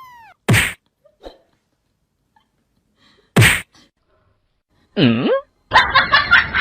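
A puppy sneezing twice, about three seconds apart, each sneeze a short sharp burst. Near the end comes a short squeal that dips and rises, then a busy mix of sounds begins.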